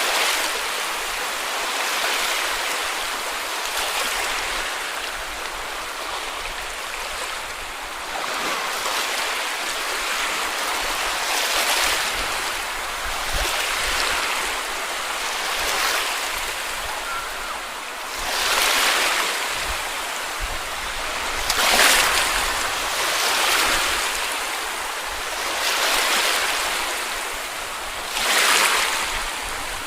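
Small sea waves breaking and washing up a beach, a steady hiss of surf that swells with each wave every few seconds, the strongest several in the second half.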